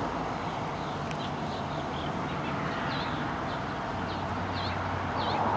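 A small bird chirping over and over, short high chirps roughly every half second to a second, above a steady low hum and rumble.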